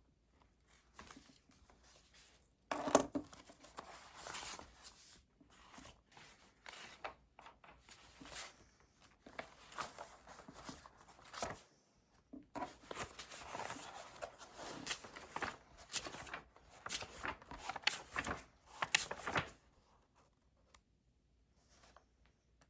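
Paper rustling and crinkling in a run of short bursts, starting about three seconds in and stopping a few seconds before the end; the first burst is the loudest.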